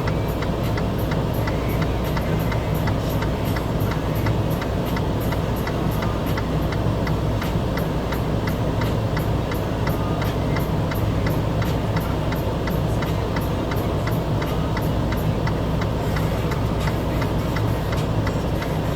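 An engine running steadily at idle, a constant low hum, with a fast, even ticking over it.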